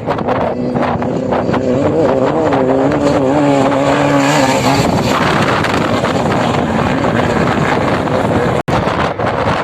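Off-road motorcycle engine running under throttle, its note wavering and rising a little, with wind rush on the microphone. After about five seconds the engine note fades into steady wind noise, with a brief cut-out near the end.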